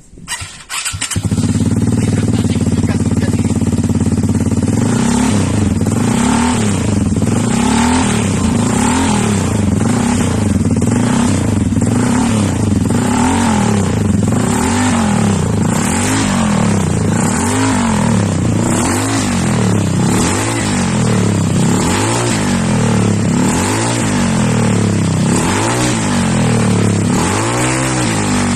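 Automatic Vespa scooter's single-cylinder engine through an aftermarket B-Pazz exhaust. It idles steadily for the first few seconds, then is blipped with the throttle over and over, the pitch rising and falling about once a second.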